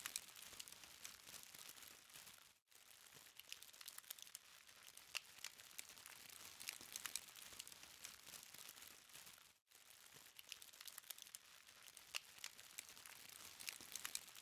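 Charcoal fire crackling faintly: many small, irregular sharp pops over a soft hiss. The sound cuts out briefly twice.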